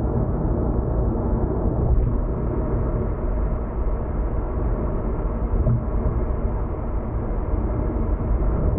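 Steady low rumble of a car driving at expressway speed, heard from inside the cabin, with tyre and road noise. There is a faint click about two seconds in.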